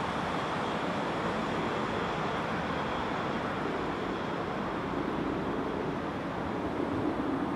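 Steady rumble of a train running in the distance across the station tracks, growing somewhat louder near the end.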